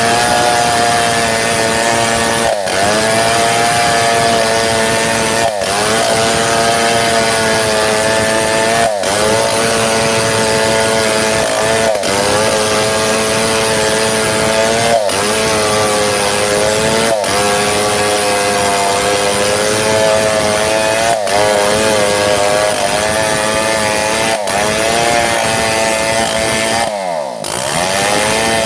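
Two-stroke chainsaw cutting lengthwise through a mahogany log under load. Its engine pitch sags briefly and recovers every two to three seconds, and near the end it drops away and revs back up.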